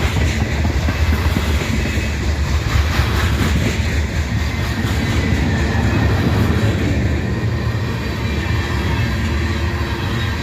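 Freight train's cars rolling past close by: a steady rumble of steel wheels on the rails with repeated clickety-clack as the wheels cross the rail joints.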